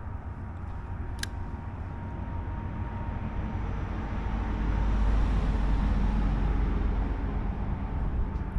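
Wind buffeting the microphone: a low rumble that swells about halfway through, with a single sharp click about a second in.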